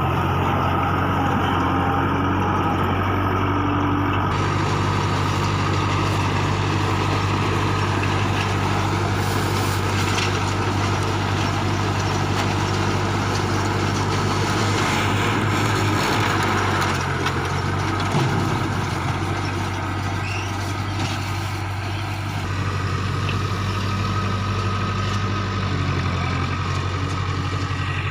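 Kubota MU4501 tractor's diesel engine running steadily while driving a round straw baler, with the baler's machinery adding a dense rushing noise from about four seconds in.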